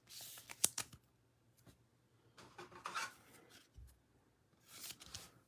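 Trading cards being handled: a few short, soft swishes of cards sliding against each other and their plastic wrapper, with a light click about half a second in.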